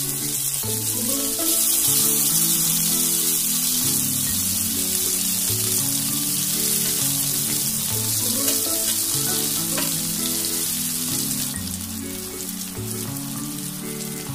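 Slices of masala-coated brinjal shallow-frying in hot oil in a pan, a steady sizzle. Background music plays underneath.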